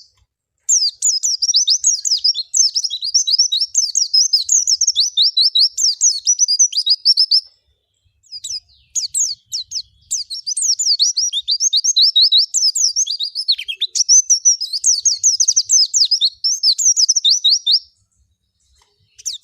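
Pleci (white-eye, Zosterops) singing: long runs of rapid, high, down-slurred twittering notes. A pause comes about halfway, with a few short phrases before the second long run, and the song stops a little before the end.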